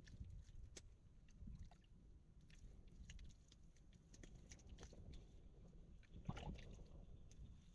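Near silence, with scattered faint clicks and a soft knock about six seconds in.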